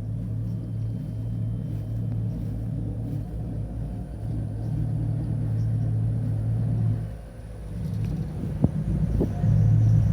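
Engine of a 1956 truck running with a steady low rumble. It drops briefly about seven seconds in, two sharp clicks follow, and it runs louder near the end.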